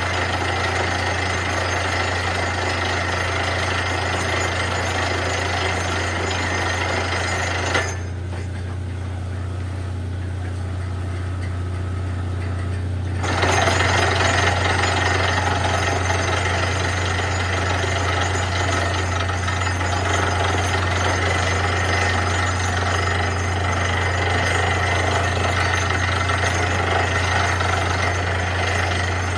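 Borewell drilling rig at work: the down-the-hole air hammer rattles steadily over the constant drone of the rig's engine and compressor. About eight seconds in the hammering stops for about five seconds, leaving only the engine hum, then starts again a little louder.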